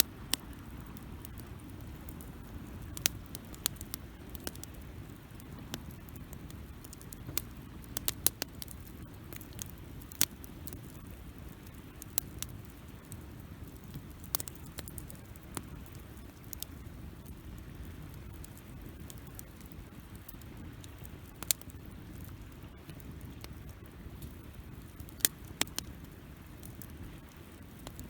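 Wood campfire burning: irregular sharp crackles and pops, a second or several apart, over a steady low rush of the flames.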